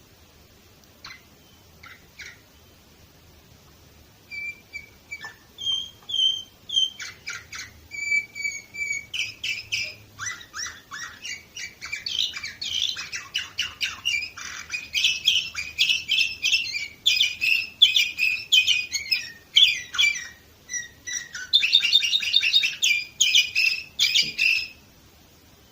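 Domestic canary singing: after a few faint notes, a long song of rapid trills and repeated note phrases, with a short break near the end before a final burst.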